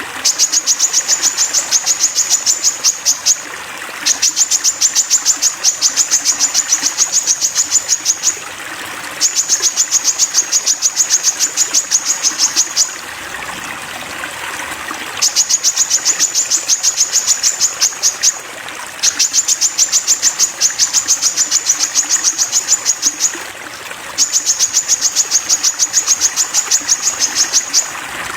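Crested jay (sogon) giving a rapid, high-pitched rattling call, repeated in six bursts of three to four seconds each with short pauses between, over a steady trickle of running water.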